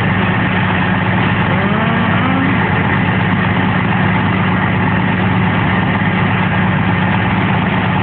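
A vehicle engine idling steadily, with a faint distant voice briefly about two seconds in.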